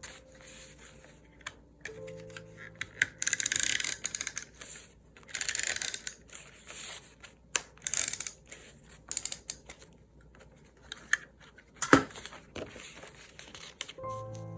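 Close-up paper-crafting handling sounds: scratchy rasps of paper or tape being worked, the two longest about three and five seconds in, with scattered clicks and one sharp click near the end, over faint background music.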